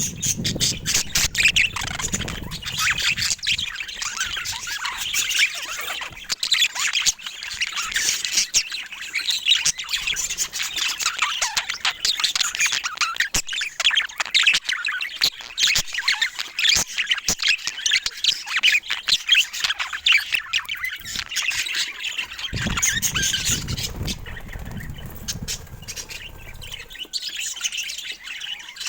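Budgerigars chattering and squawking: a busy, unbroken stream of short chirps, warbles and clicks, with a low rumble underneath about three-quarters of the way through.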